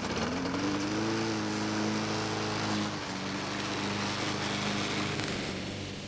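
Walk-behind lawn mower's small four-stroke engine revving up over the first second, then running steadily at speed.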